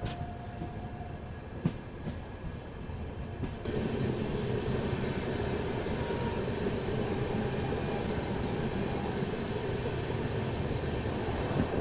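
Hisar–Jaipur Express train coming in on the adjacent track: a steady rolling rumble of wheels on rail that comes up suddenly about four seconds in, with faint wheel squeal.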